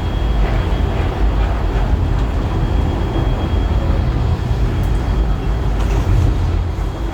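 Heritage railway passenger carriage interior rumbling steadily on the move, a deep continuous rumble with a few faint clicks over it.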